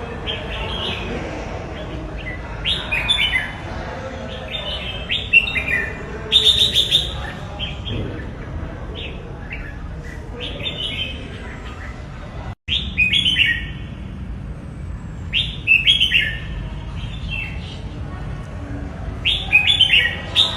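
Red-whiskered bulbul singing: short, quick phrases of bright chirping notes every second or two. There is a momentary dropout in the sound about twelve seconds in.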